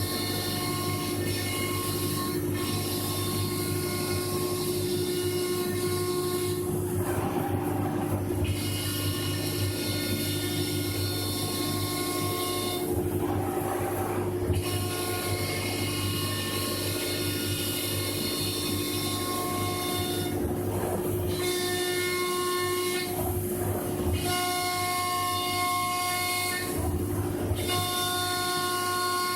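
CNC router spindle running steadily while milling a door, a continuous whine with several higher tones that shift and briefly drop out every few seconds as the cut changes.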